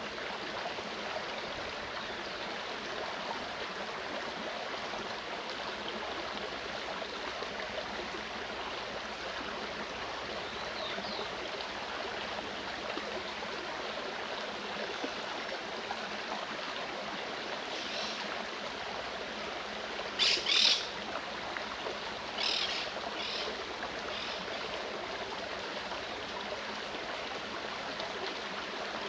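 Mountain stream flowing steadily, with a few short bird calls about two-thirds of the way through, the loudest a pair of calls around twenty seconds in.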